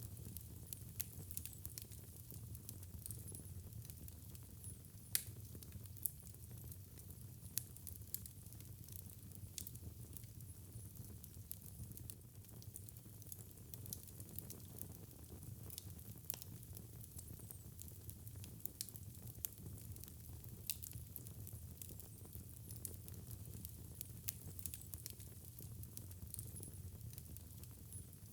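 Fire burning in a fireplace, crackling with irregular sharp pops over a steady low rumble and soft hiss; one louder pop about five seconds in.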